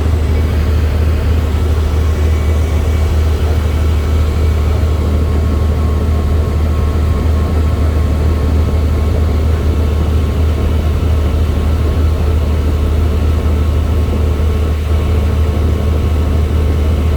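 Helicopter rotor and engine noise: a loud, steady low drone that does not change.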